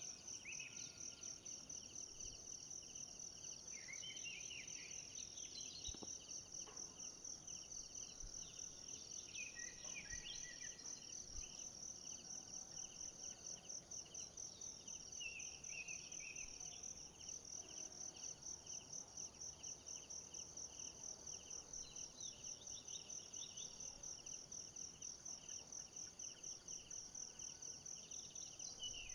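Insects trilling in a steady, rapidly pulsing chorus, with short high chirping calls coming and going over it.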